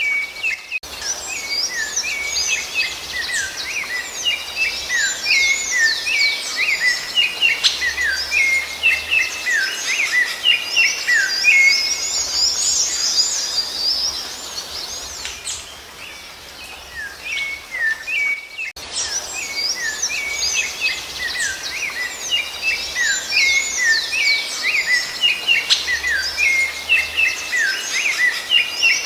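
Rufous-bellied thrush (sabiá-laranjeira) singing: a dense, continuous run of short whistled and chirped notes. There is a brief lull about two-thirds of the way in, then the same kind of song starts up again.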